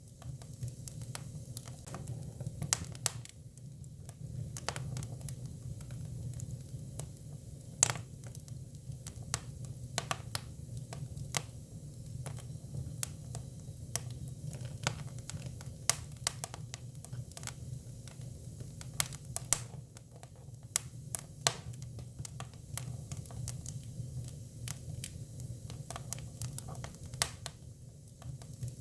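Japanese cypress (hinoki) firewood burning: irregular sharp crackles and pops, a few louder snaps among them, over a steady low rumble of the fire.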